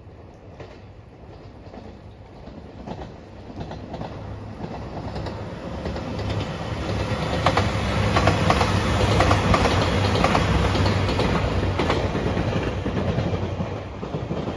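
JR Shikoku 2700 series diesel limited express passing, its wheels clacking in quick runs over the rail joints. It builds up over several seconds, is loudest from about halfway through, then fades toward the end.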